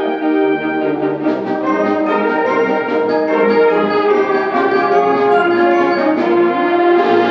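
Symphonic band playing sustained chords, with the brass section leading.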